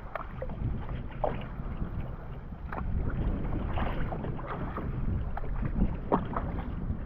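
Water sloshing and splashing against an outrigger canoe's hull, with short irregular splashes over a steady low rumble of wind on the microphone.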